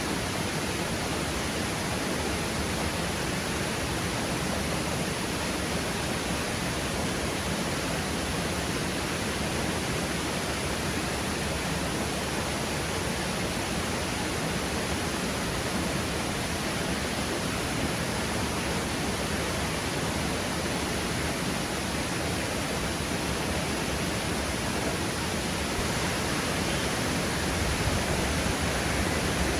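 Steady rushing of falling water, a waterfall or fast stream, running as an even noise throughout.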